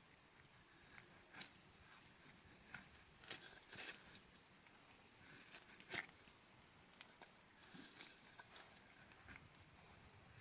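Faint scattered rustles and small clicks, the sharpest about six seconds in.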